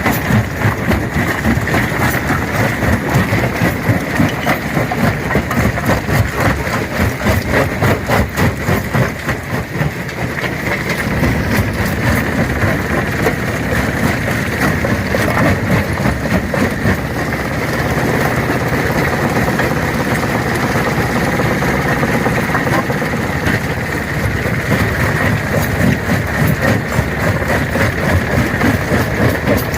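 Stone crusher running steadily and crushing rocks, with a constant rapid clatter of cracking and knocking stone over a low machine rumble and a steady high tone. The clatter eases a little after about ten seconds and thickens again near the end.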